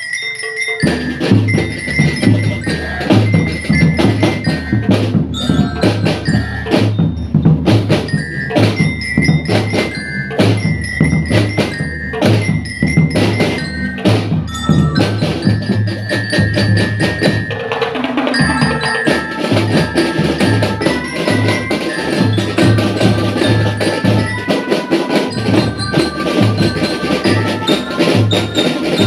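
Drum band playing: marching drums keep a steady beat under a bright glockenspiel melody.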